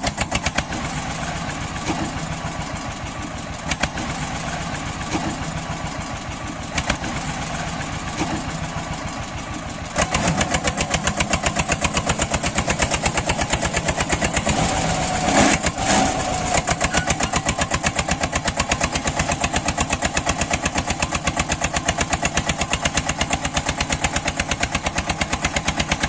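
Homemade mini tractor's small engine running with a steady, even beat of firing pulses. It gets louder about ten seconds in.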